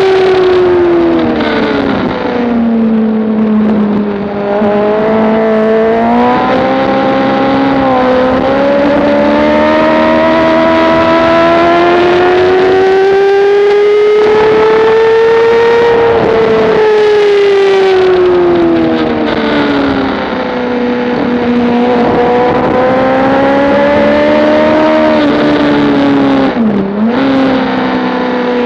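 Motorcycle engine at track pace. The revs fall briefly about two seconds in, climb in a long steady pull, drop away, then climb again. Near the end there is a quick sharp dip in pitch, like a gear change.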